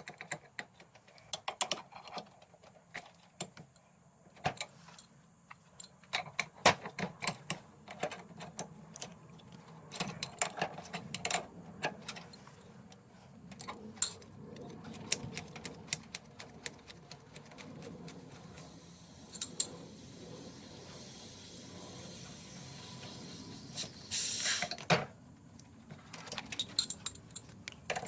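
Light clinks and clicks of hand tools and small metal parts being handled. A steady noise builds through the second half and cuts off suddenly near the end.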